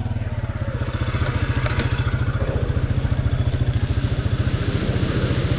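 Engine of an off-road mudding vehicle running steadily at low revs, with an even, rapid pulse and some light clatter.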